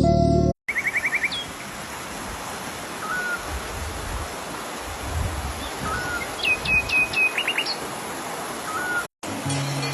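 Songbirds calling over a steady, even background hiss: a quick trill of about six notes, three short rising-and-falling whistles spread apart, and a run of descending slurred whistles in the middle. Music plays briefly at the start and comes back after an abrupt cut near the end.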